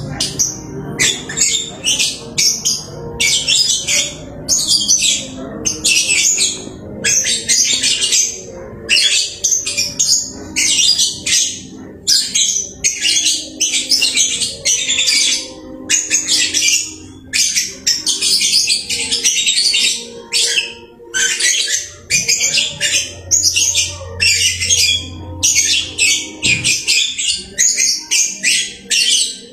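Lovebird chattering: a near-continuous run of short, high-pitched chirps and squawks, two or three bursts a second.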